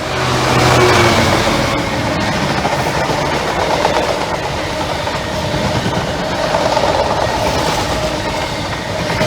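A train passing close by at speed: the sound of its wheels on the rails swells over the first second, then holds loud and steady.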